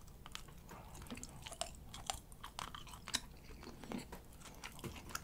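Close-miked chewing of grilling cheese, quiet, with irregular soft clicks and squeaky friction as the chewy cheese rubs against the teeth.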